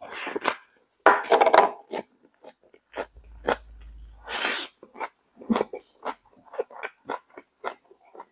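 Close-miked chewing of a full mouthful of raw vegetables and grilled pork: many short, irregular crunches with wet mouth sounds, loudest in the first two seconds.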